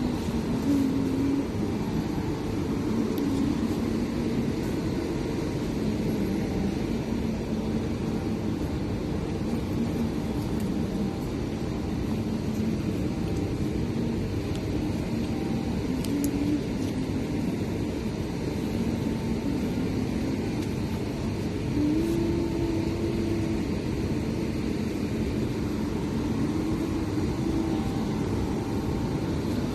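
Steady low rumble of street traffic, with faint wavering engine-like hums and no sharp events.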